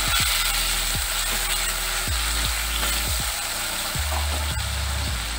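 Ginger paste and whole spices sizzling in hot mustard oil in a metal kadai, wetted with a little water so the ginger does not burn, with a spatula stirring and scraping the pan at the start.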